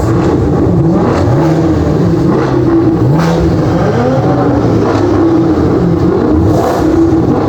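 Car engine revving again and again, its pitch climbing with each rev, loud and continuous.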